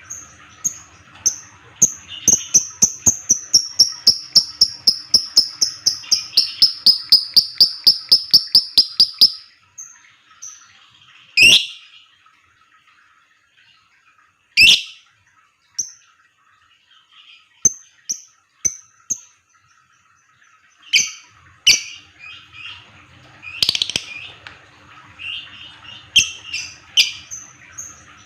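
Fighter lovebird chattering: a fast, even run of sharp high chirps, about five a second, that lasts some seven seconds and stops about nine seconds in, followed by scattered single chirps and clicks.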